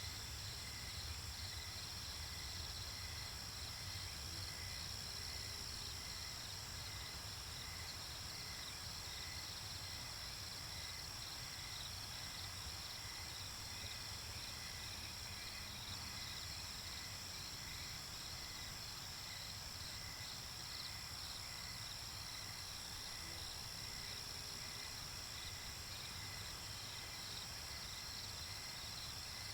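Night-time nature ambience of crickets and other insects chirping steadily, with a continuous high trill, rapid pulsing chirps, and a low hum underneath.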